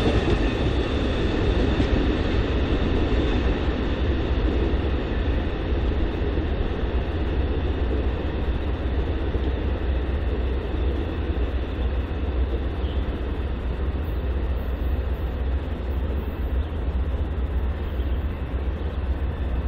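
A train rolling past on the rails: a steady rumble of wheels and cars, with the higher sounds gradually fading.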